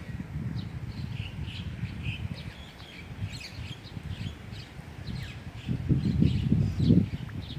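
Small birds chirping with many short, high calls, over a rumbling gust of wind on the microphone that grows louder about six seconds in.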